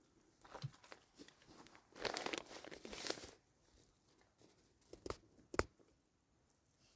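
Rustling, crinkling handling noise for about a second, starting about two seconds in, then two sharp knocks about half a second apart.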